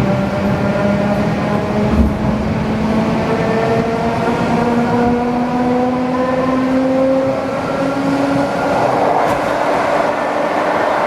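ED4M electric multiple unit running between stations. The traction motors' whine slowly rises in pitch and fades out about eight seconds in, leaving the steady rumble and rush of the train on the track.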